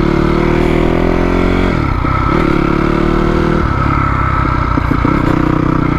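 Four-stroke single-cylinder Honda CRF250R dirt bike engine pulling away under throttle. Its pitch climbs, then drops sharply at a gear change about two seconds in, climbs again and drops at another shift a little past halfway, then runs on more steadily.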